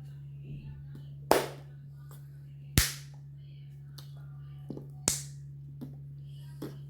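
Three sharp smacks, about a second and a half apart, with a few fainter clicks between them, over a steady low electrical hum.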